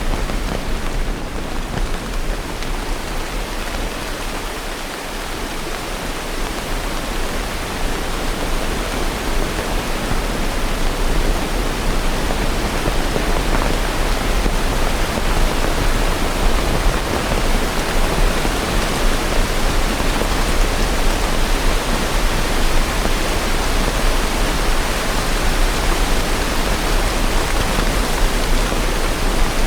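Steady rain, an even hiss with no single drops or thunder standing out, growing a little louder after the first several seconds.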